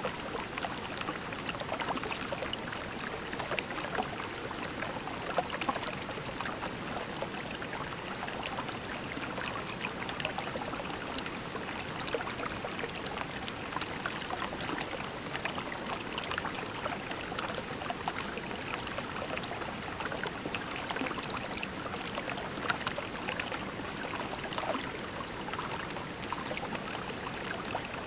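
Shallow creek water babbling steadily over pebbles, with many small splashes and trickles.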